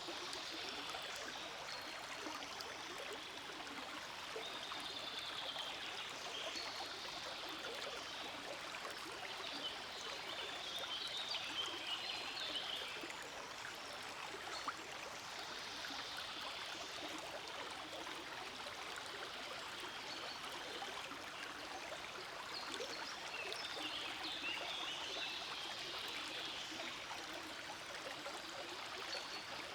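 A small forest stream flowing steadily over rocks, with a bright babbling splash that swells and eases now and then.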